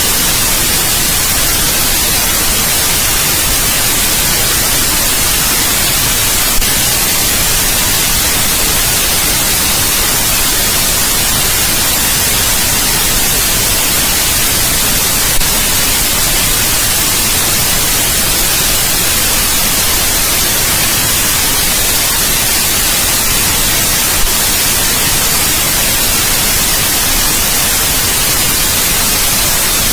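Steady white noise: an even, loud hiss across all pitches, slightly brighter in the treble. It is broken by three brief clicks about nine seconds apart.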